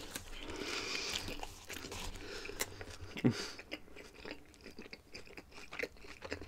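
A person chewing food, with many small mouth clicks.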